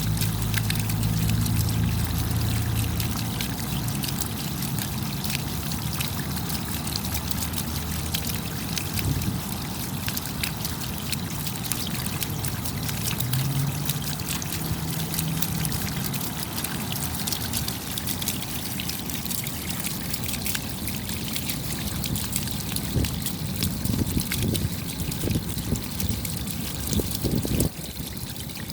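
Rain falling steadily, a dense hiss of many separate drops striking. A low hum sits under it for the first few seconds and again about halfway through, and the sound drops suddenly in level near the end.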